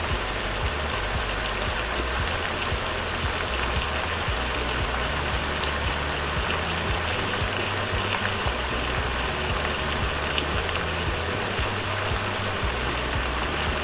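Pork belly with shrimp paste sizzling steadily in a pot just after white vinegar is poured in, a constant hiss while the vinegar cooks off. Background music with a low bass line plays over it.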